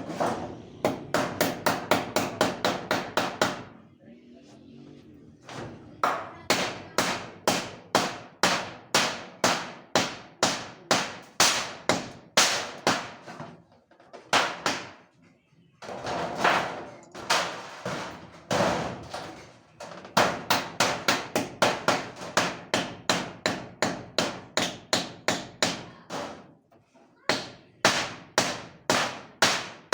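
Hammer blows struck in rapid runs, about four a second, broken by short pauses.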